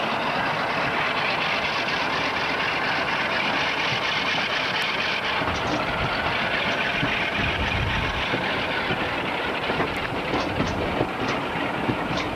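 Passenger train running over curving track and pointwork, heard from an open carriage window: a steady rumble of wheels and carriages, with sharp wheel clicks over the rail joints and points in the last few seconds.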